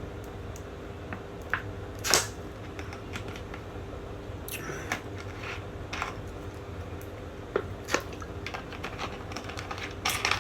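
Scattered clicks and knocks of objects being handled, the loudest about two seconds in, over a steady faint hum.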